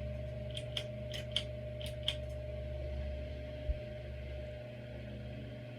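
A 42-inch Hampton Bay Grayton II ceiling fan running with a steady motor hum and a faint whine. In the first two seconds there are three pairs of light, sharp clicks, and a dull thump comes a little past the middle.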